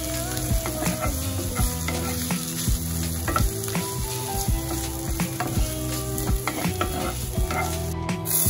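Chicken breast strips and diced Spam sizzling in a cast-iron skillet while a spatula stirs them, with repeated irregular knocks and scrapes against the pan.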